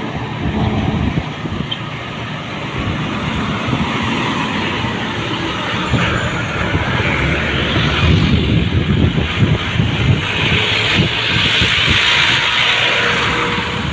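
Heavy road vehicles passing at speed on a highway: a steady rush of engine rumble and tyre noise that grows louder after the middle and is loudest near the end.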